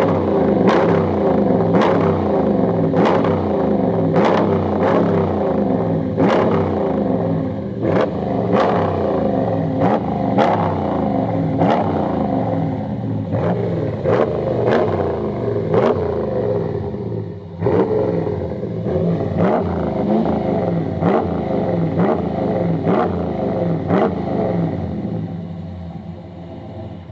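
Dodge Ram 1500's Hemi V8 through Flowmaster Super 10 mufflers, revved in quick repeated blips, about one or two a second, with the pitch rising on each. It eases off toward idle near the end.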